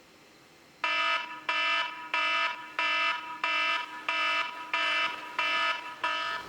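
Electronic alarm beeping, nine steady-pitched beeps about three every two seconds, starting about a second in.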